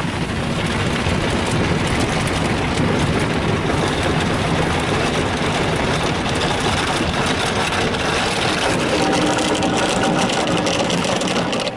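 Rotating cloth brushes of a Ryko Softgloss Maxx automatic car wash scrubbing a truck amid water spray, heard from inside the cab. The noise is loud and steady, then drops off sharply near the end.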